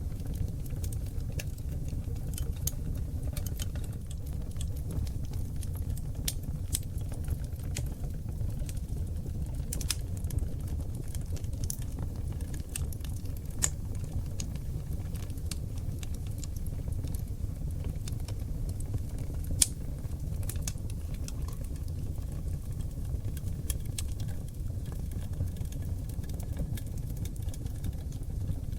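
Wood fire of seasoned oak logs burning in a fireplace: a steady low rumble of flames with irregular crackles and pops, two sharper pops standing out about 14 and 20 seconds in.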